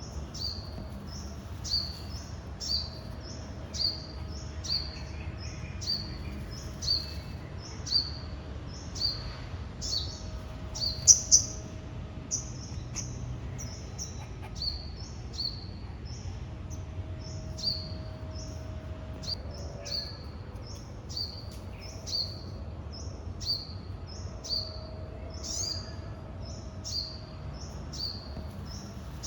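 A small bird calling over and over, a short high falling chirp about twice a second, with two sharp louder clicks about eleven seconds in.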